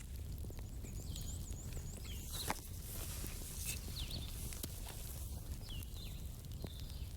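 Campfire burning: wood crackling with scattered small pops and one sharp snap about two and a half seconds in, over a low rumble.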